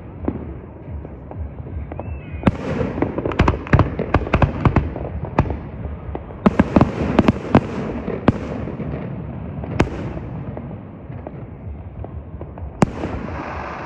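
Fireworks going off: two quick runs of crackling pops, a few seconds in and again past the middle, then single sharper bangs, the loudest near the end with a lingering echo.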